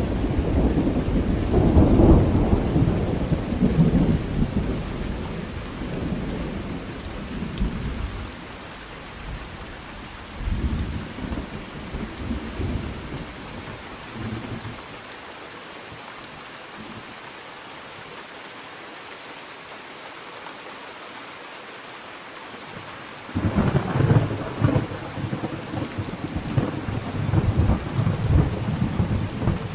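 Thunderstorm: steady rain with rolling thunder. A long rumble at the start dies away after several seconds and a shorter one follows; then only rain is left for a while before thunder breaks in suddenly and rumbles on to the end.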